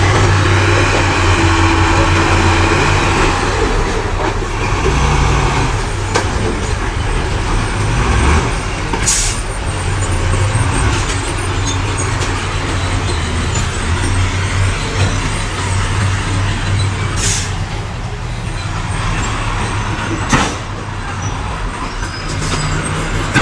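Heavy diesel engines of bulldozers and dump trucks running steadily with a deep, continuous hum. Three short hisses cut through, about nine, seventeen and twenty seconds in.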